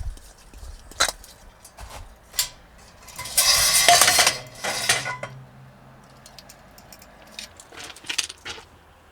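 Metal camping cookware and utensils clinking and clattering as they are handled, with a harsh rustling rush lasting about two seconds near the middle.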